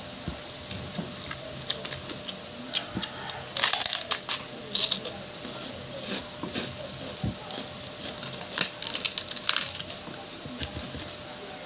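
Close-up eating sounds: crisp crackling crunches of pork cracklings (chicharong baboy) being bitten and chewed, in two louder bouts, about four seconds in and again near nine seconds, with softer chewing clicks between.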